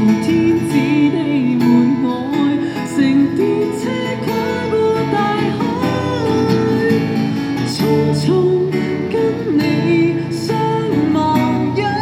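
Live busking music: an acoustic guitar strummed under a singer's melody, continuing the song without clear words.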